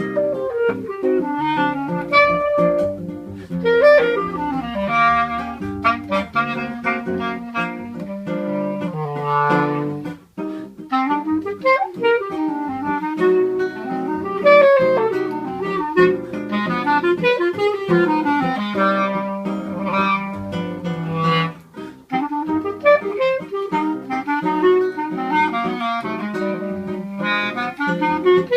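Clarinet and seven-string guitar playing a choro together: the clarinet carries the flowing melody while the guitar plucks chords and a moving bass line underneath.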